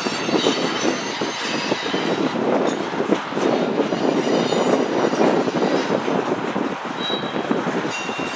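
Covered grain hopper cars of a freight train rolling past, their steel wheels running and clattering steadily on the rails, with a couple of brief high wheel squeals near the end.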